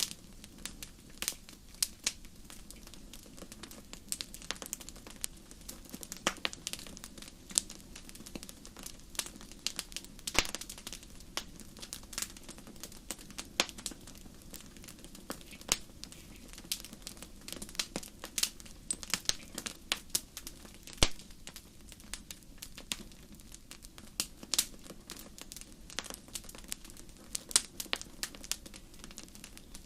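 Wood fire burning in a fireplace: a steady low rumble with many sharp, irregular crackles and pops.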